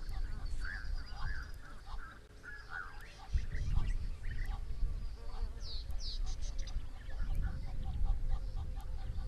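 Several wild birds calling at once, many short chirps with a few quick high sweeping notes about six seconds in, over a low rumble.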